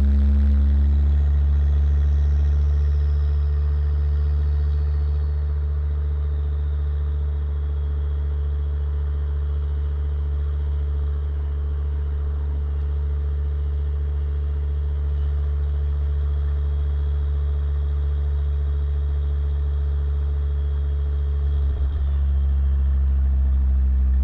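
Exhaust of a 2006 Volvo S60R's turbocharged inline-five with a custom cat-back exhaust and 3-inch downpipe, running in a steady, deep drone. The pitch settles slightly lower in the first second, and there is a brief break near the end before it picks up a little.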